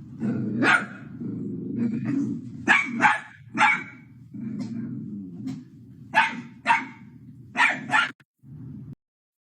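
A dog growling steadily with about eight short, sharp barks over it, some in quick pairs; it all stops about a second before the end.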